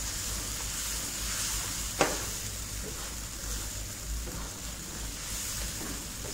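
Marinated chicken sizzling and frying in a thick masala in a metal kadai while it is stirred and turned with a spatula, a steady hiss. About two seconds in there is one sharp clack of the spatula against the pan.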